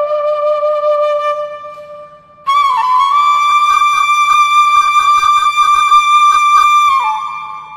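Solo flute music playing long held notes: a low note fades out, then a louder, higher note enters about a third of the way in, with quick fluttering ornaments, and falls away near the end.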